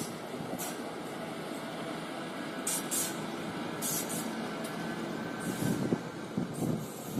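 Indian Railways passenger train hauled by a WAP-4 electric locomotive rolling past, its wheels and coaches making a steady rumble on the track. Several brief high hissing bursts come and go over it.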